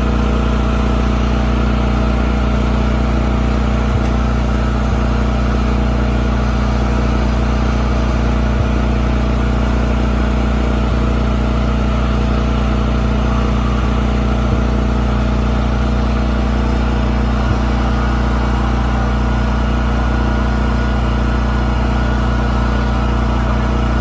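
An engine running steadily at one constant speed, a low drone with a few steady tones above it and no change in pitch.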